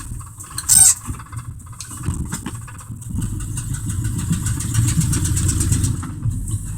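A 1987 Dodge Ram D150 pickup's engine running as the truck drives over rough ground, a low rumble that grows louder from about three seconds in and eases off near the end. A brief sharp high-pitched noise sounds about a second in.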